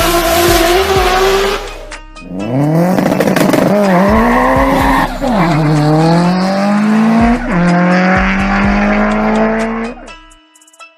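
Car engine accelerating hard through the gears: the engine note climbs in pitch, drops back sharply at two gear changes, climbs again, and cuts off near the end.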